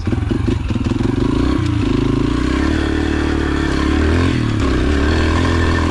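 Yamaha TT-R125 pit bike's small single-cylinder four-stroke engine running under throttle, its pitch rising and falling as the throttle changes, with a clear drop about two seconds in.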